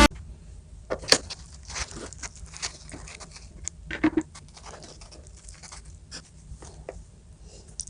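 Scattered light clicks, taps and rustles of things being handled, irregular and fairly quiet, with a sharper click about a second in.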